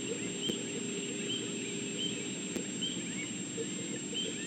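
Short rising chirping calls from small animals repeat about once a second over a steady hum, with a constant high-pitched whine.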